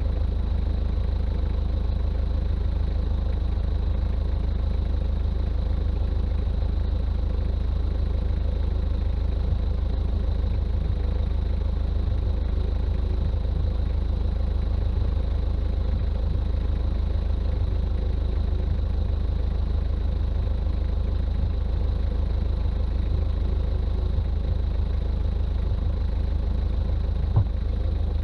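Toyota Land Cruiser BJ40's diesel engine running steadily on the road: a constant low drone, with a small knock near the end.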